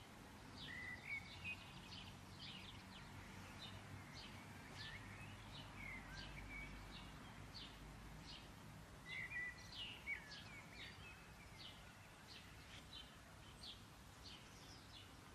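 Faint chirping of small birds: short, high chirps repeating several times a second, with a few short sliding notes.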